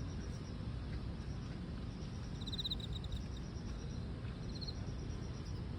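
Grass insects, crickets, giving two short pulsing trills, about two and a half and four and a half seconds in, over a steady low rumble of outdoor background noise.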